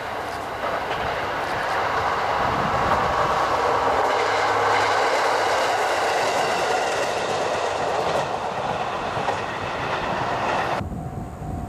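A single-car KiHa 54 diesel railcar passing on the line, its engine running and its wheels clicking over the rail joints. The sound builds over the first few seconds, stays loud, and is cut off suddenly near the end.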